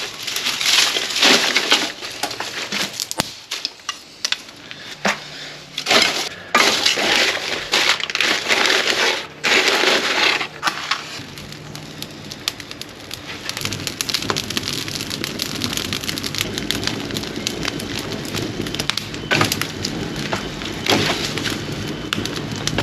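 Dry sticks and kindling being snapped and crunched for a campfire, then the fire crackling as it catches.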